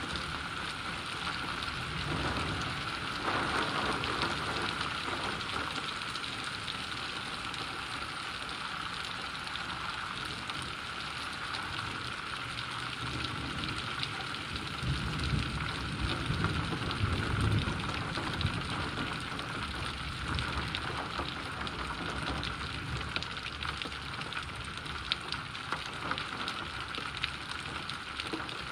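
Steady rain falling as an even hiss, with low rumbles of distant thunder swelling briefly near the start and again about halfway through.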